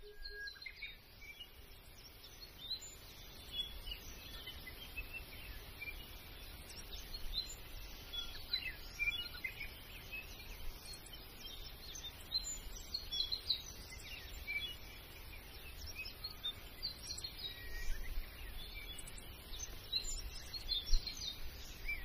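Several small birds chirping and calling, in many short, scattered notes, over a steady low rumble.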